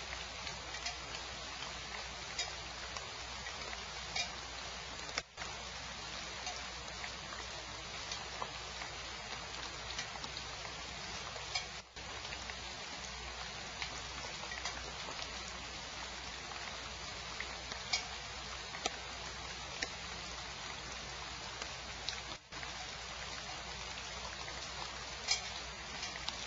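Steady rain: a constant hiss with scattered sharp ticks of drops striking close to the microphone. The sound cuts out briefly three times.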